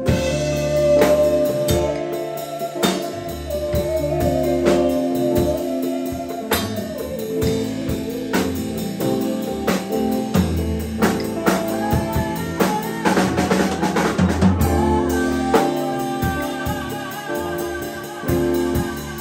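Live band playing an instrumental passage: a drum kit with snare and bass drum under a bass line and held, bending lead notes. A rapid drum fill comes about thirteen seconds in.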